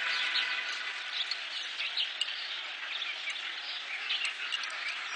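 Birds chirping, many short overlapping calls over a steady background hiss.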